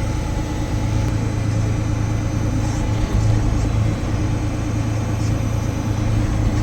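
Tractor engine running steadily at a constant note while pulling a hay rake.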